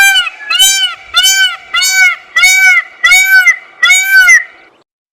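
An animal call repeated about eight times in a steady rhythm, each call short and rising then falling in pitch, stopping shortly before the end.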